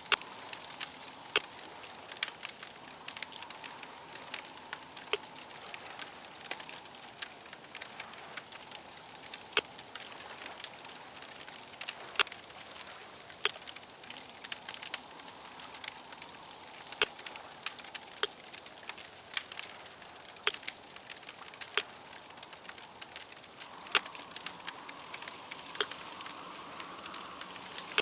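Fire crackling: a steady hiss with many irregular sharp pops.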